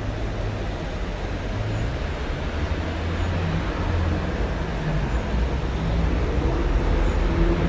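Steady rumble of road traffic, with the low hum of vehicle engines, growing a little louder toward the end.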